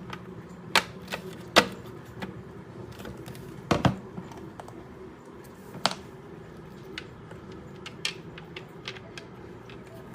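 Screws being fitted and tightened into a mixer grinder's housing with a screwdriver: irregular sharp clicks and knocks of tool and parts, the loudest about a second and a half in and near four seconds in, over a low steady hum.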